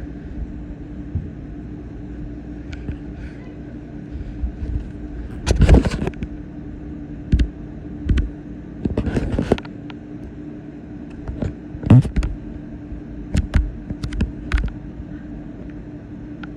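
A motor vehicle running with a steady hum, broken by repeated sharp knocks and thumps, the loudest about six, nine and twelve seconds in.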